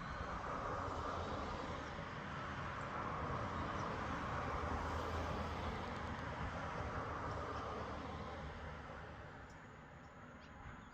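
A vehicle passing by: a steady noise that builds, is loudest around the middle and fades away near the end.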